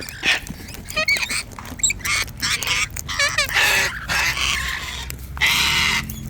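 A flock of wild cockatoos and parrots squawking and screeching over one another in quick succession, harsh calls mixed with short warbling chirps. Near the end comes one harsh screech lasting about half a second.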